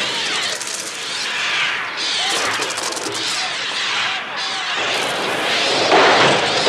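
Massed bird shrieks over a dense, rapid flutter of wing-beats, the sound of a bird attack made electronically for the film's soundtrack. The screeches rise and fall in pitch, and the din grows louder near the end.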